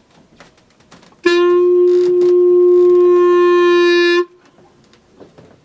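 Clarinet playing one long held note for about three seconds, starting about a second in and cutting off cleanly.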